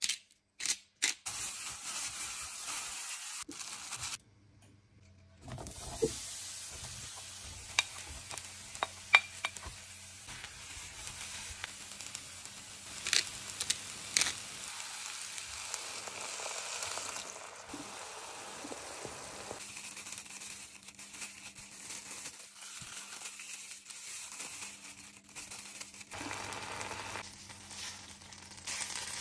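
Diced eggplant, and then chicken-and-red-onion skewers, frying in oil in a nonstick frying pan: a steady sizzle broken by scattered clicks and knocks of a utensil. The sizzle grows louder near the end as the skewers are laid in.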